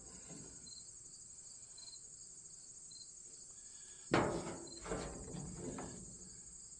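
Crickets chirping steadily. About four seconds in, a sharp metal clank with ringing, followed by a few lighter clinks, as steel roller chain and connector-link plates are handled and fitted onto a combine's sprocket.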